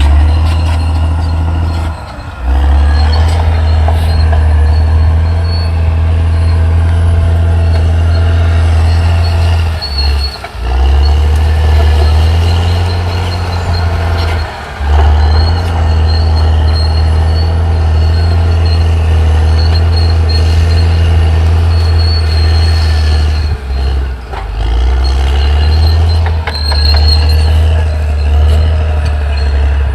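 Caterpillar D6R XL crawler bulldozer working: its diesel engine runs under heavy load with a deep, steady drone that drops away briefly four times, with a thin high squeal from the running gear over it.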